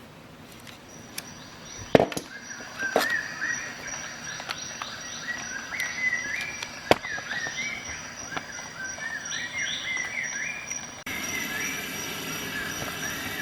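A bird chirping in quick, repeated short rising and falling notes, with a few sharp clicks over it, the loudest about two seconds in and another near seven seconds.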